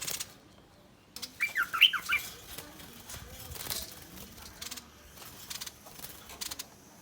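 Bulbul giving threat calls: a quick run of sharp chirps about a second in, then scattered short, harsh rasping calls.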